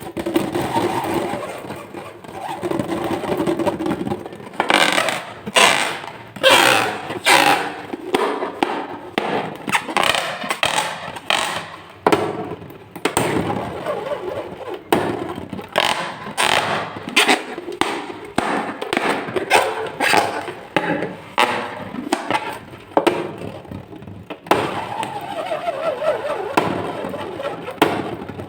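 Rubber balloons and slime being squeezed and handled: a dense run of crackling, squelching strokes, with squeaky rubber glides near the start and a falling squeak near the end.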